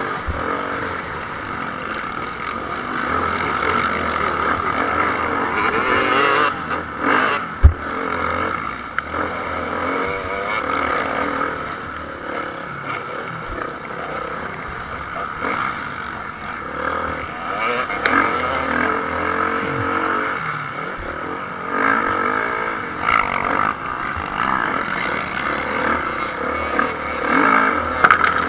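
Motocross bikes racing, their engines revving up and down as riders open and shut the throttle through the track, rising and fading as they pass. A single sharp knock about a third of the way in.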